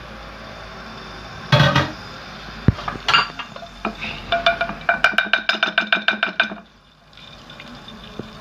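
Metal cookware clattering on the gas cooker over a steady hiss: a few knocks, then a quick ringing rattle of about six strikes a second that stops suddenly.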